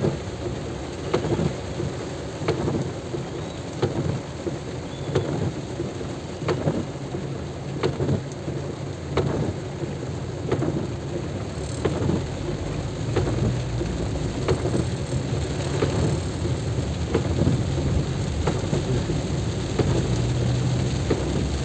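Rain pouring during a drive through a storm, over a steady low rumble, with a sharp knock repeating about every second and a half.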